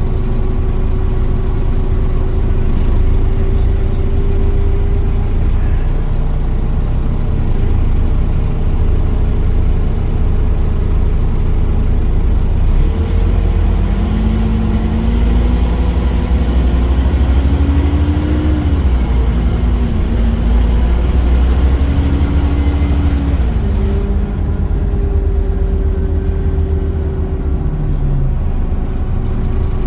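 Scania Omnicity bus engine and drivetrain heard from on board, running with a steady tone for the first part. About halfway through, the pitch climbs in steps as the bus pulls away and accelerates through its gears, then falls back and settles near the end.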